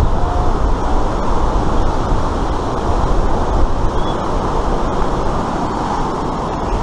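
Steady loud rush of white water churning down an artificial whitewater slalom course, a constant deep roar of turbulent water.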